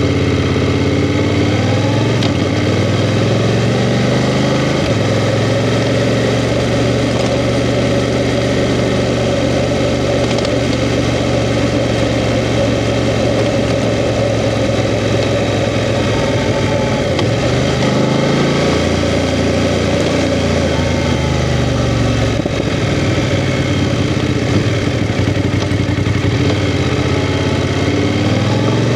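BMW F 750 GS motorcycle's parallel-twin engine running under way, its pitch rising and falling several times as the revs change.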